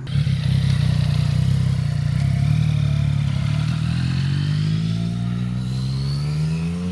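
Yamaha MT-09 motorcycle's three-cylinder engine accelerating away. It comes in suddenly and loud, and its note rises steadily through one long gear.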